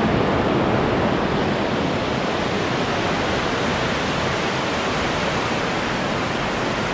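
Fast river water rushing through a narrow rock gorge, a steady, unbroken noise.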